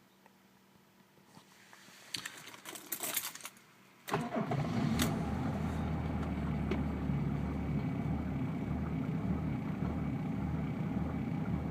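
Mercedes OM603 3.5-litre turbodiesel inline-six cold-started in freezing weather: the starter cranks for a second or two, the engine catches about four seconds in, then idles with a rhythmic low pulsing as the electronic idle control hunts just after the cold start.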